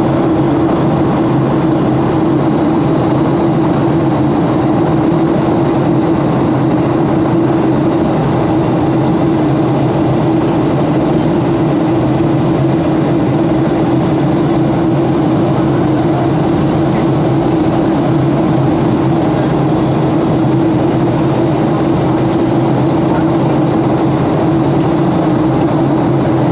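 Airplane cabin noise: a loud, steady roar with a constant low hum and a high hiss, unchanging throughout.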